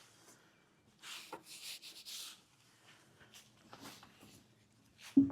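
Pad rubbing over a boat's gelcoat, a few soft swishing strokes about a second in and fainter ones after, with a brief louder bump near the end.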